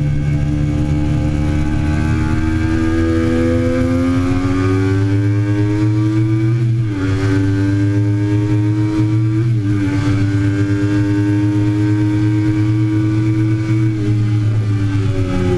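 Triumph Daytona 675's three-cylinder engine accelerating hard on track, its pitch climbing, with a clear upshift about halfway through and a second smaller one a few seconds later. The engine then holds steady at high revs and begins to drop off near the end.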